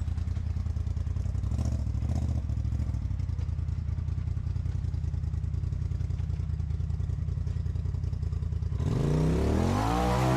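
Off-road vehicle engine running at a low, steady idle, then revving up about nine seconds in, its pitch climbing and holding high.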